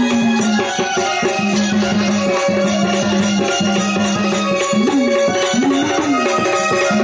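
Marathi gondhal folk music: a melody of long held notes, bending in pitch in the last couple of seconds, over steady rhythmic drumming and jingling percussion.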